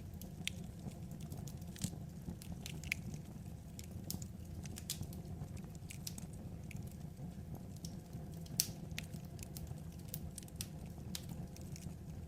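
Wood fire crackling: irregular sharp pops and snaps over a steady low rumble, with one louder pop about eight and a half seconds in.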